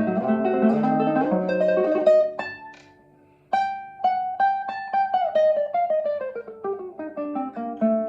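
Classical guitar playing a tremolo passage, with fast repeated melody notes over bass notes. The music fades to a brief pause about three seconds in, then resumes with a melody that steps downward in rapid repeated notes.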